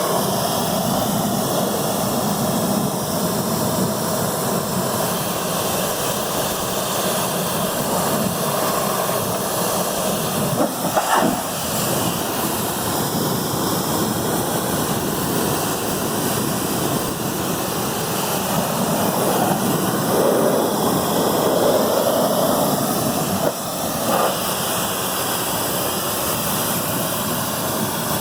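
Stanley 1500 psi electric pressure washer running, its water jet spraying onto wheel rims with a loud, steady hiss. The spray sound shifts briefly a few times as the jet moves.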